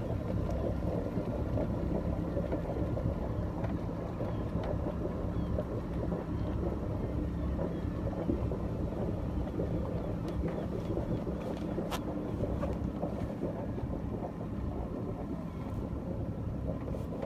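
Sailboat's auxiliary engine running steadily as the boat motors along, with one sharp click about twelve seconds in.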